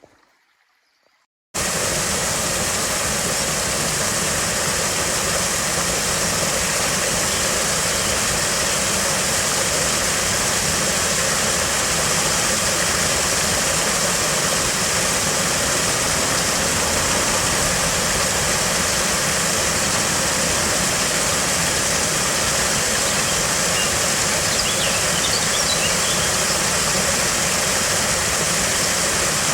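Loud, steady rush of fast-flowing stream water, starting suddenly about a second and a half in. A few faint high chirps near the end.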